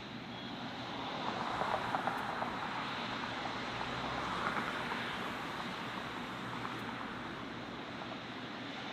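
Jet airliner engine noise: a steady rushing roar that swells from about a second in, peaks around the middle and eases slightly toward the end.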